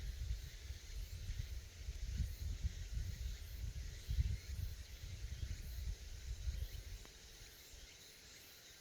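Cicadas droning steadily, with wind buffeting the microphone in gusts until about seven seconds in.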